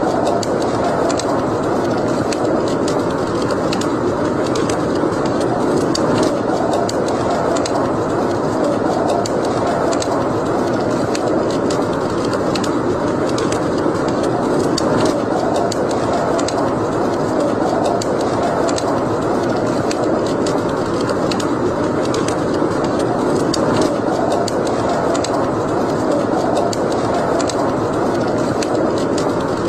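Wood fire burning in a fireplace: a steady rushing of flames with scattered sharp crackles and pops.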